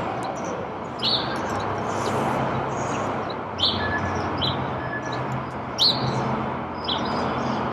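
Small birds give short, sharp chirps every second or two over a steady background of noise and low hum.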